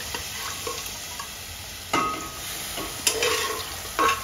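Boiled chicken pieces going into hot masala paste in a pot, with a steady sizzle. Three short, louder bursts come about two, three and four seconds in as more pieces drop into the hot paste.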